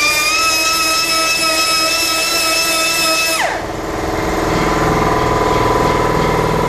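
A grinder running free with a high, steady whine and hiss, then shut off about three and a half seconds in, its pitch falling away quickly. A steady engine hum carries on underneath.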